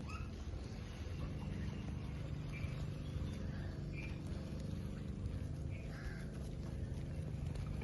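Ringneck parakeet giving short chirps, about five, spaced a second or two apart, over a steady low rumble.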